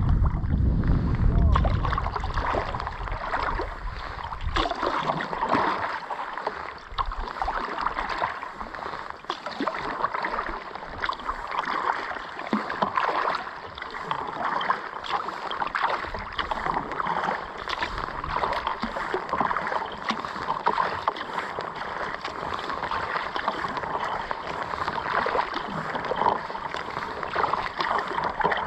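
Water splashing and sloshing around a kayak as it is paddled, in an irregular stream of small splashes. Wind rumbles on the microphone for the first few seconds.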